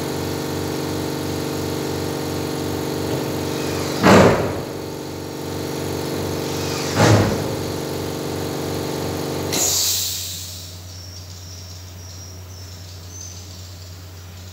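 A motor-driven machine running with a steady, pulsing hum, two loud knocks about four and seven seconds in, then cutting off near the ten-second mark, leaving a much quieter background.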